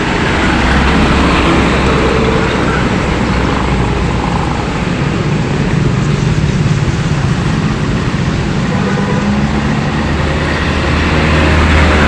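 Road traffic: vehicle engines and tyres passing in a steady stream, with low engine hums swelling and fading as vehicles go by.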